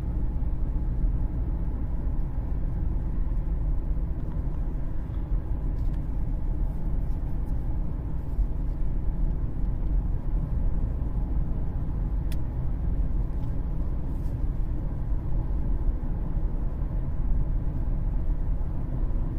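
Steady low road and drivetrain noise inside the cabin of a 2013 Cadillac CTS 3.0 RWD cruising at about 43 mph on a slight incline. No driveshaft vibration drone stands out, a sign the driveshaft is now properly clocked to the new differential.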